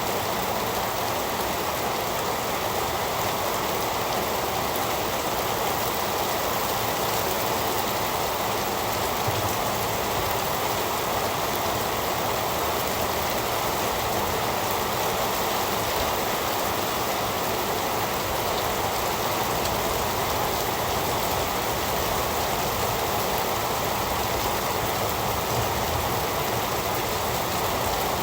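Heavy rain falling steadily, a dense even hiss with fine patter of drops.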